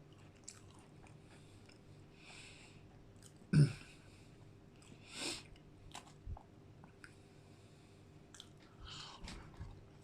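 Close-miked chewing of ice cream mixed with digestive biscuits: soft wet mouth sounds with scattered small crunches. There is one sharp, loud bite or knock about three and a half seconds in.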